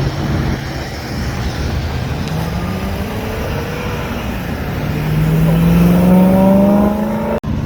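Car engine running and then accelerating hard past, its pitch climbing for about two seconds and loudest just after the middle. The sound drops out for an instant near the end.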